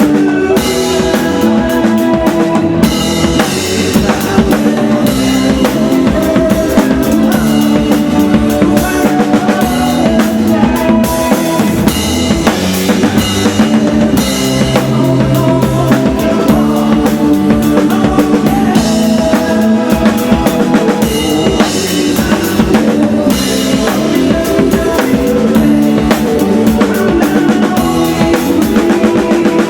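A band playing a song: a drum kit keeps a steady beat of kick drum and snare under sustained chords.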